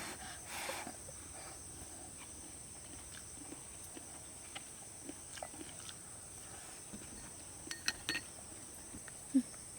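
Steady high-pitched insect drone of cicadas or crickets, with scattered light clicks of eating utensils and a small group of sharper clicks about eight seconds in. A short low sound comes near the end.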